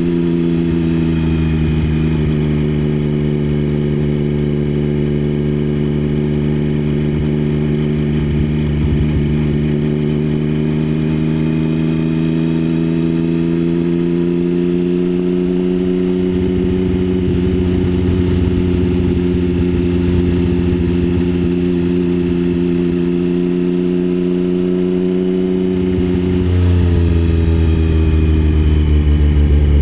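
Triumph Speed Triple 1050's inline three-cylinder engine through a Mivv aftermarket exhaust, running at nearly steady revs as the bike is ridden, the pitch easing slightly and slowly climbing back. Near the end the revs change and the exhaust gets a little louder.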